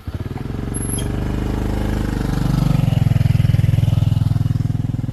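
Small motorbike engine running close by, its steady putter growing louder about halfway through.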